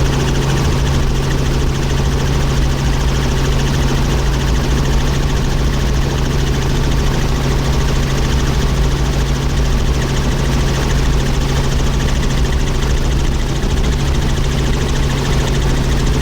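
Helicopter in flight: steady, unbroken engine and rotor noise with a strong low hum.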